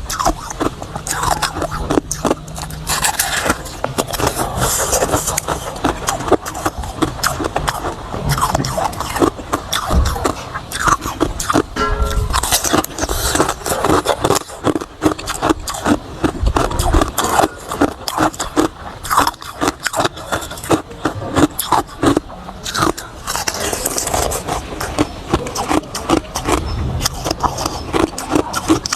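Hard ice being bitten and chewed close to the microphone: a continuous run of loud, sharp crunches and crackles.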